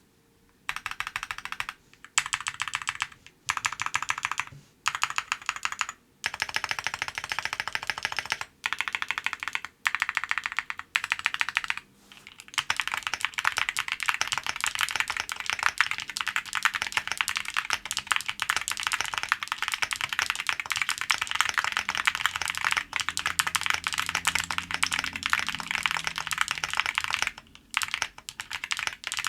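Typing on a Pixelspace Capsule 65 mechanical keyboard fitted with Musetsu switches, a POM plate, thick PBT keycaps and full case, plate and PE foam. The keys are first pressed in short bursts with pauses between them, then typed fast and steadily from about twelve seconds in, with a brief pause near the end.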